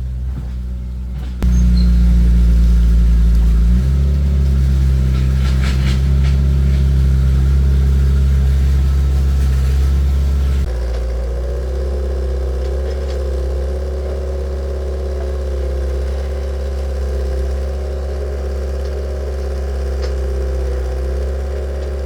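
Heavy machine's engine running steadily. Its sound changes abruptly about a second and a half in, again near four seconds, and again about ten seconds in. After the last change a wavering whine sits over the engine.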